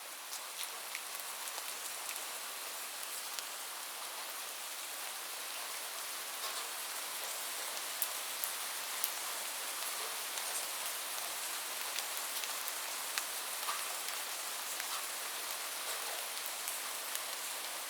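Steady rain falling, an even hiss with many small drops tapping sharply on a surface.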